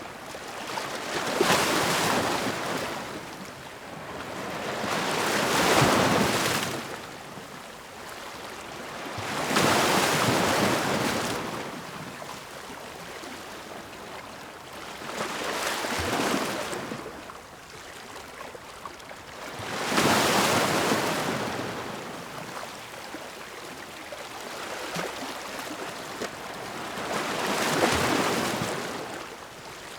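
Ocean waves breaking and washing on the shore, the surf swelling and falling away in a slow rhythm, a wave about every four seconds.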